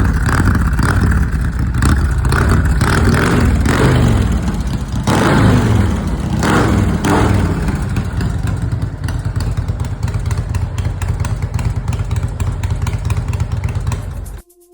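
Motorcycle engine revved hard several times, then running on at a steadier pace with a fast pulsing beat, cutting off suddenly near the end.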